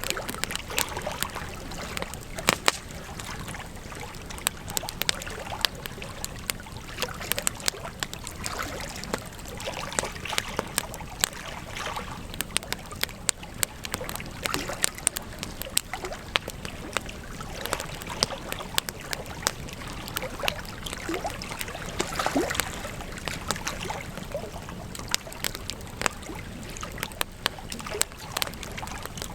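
Campfire crackling, with frequent sharp, irregular pops over a steady hiss of burning wood.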